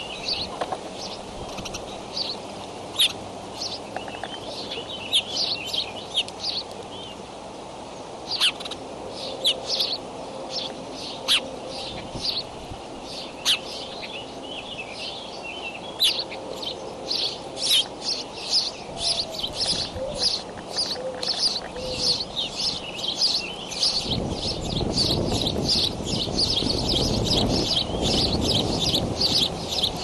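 Birds chirping: short, high chirps, scattered at first and then a rapid, dense run through the second half. A low rumbling noise joins in for the last several seconds.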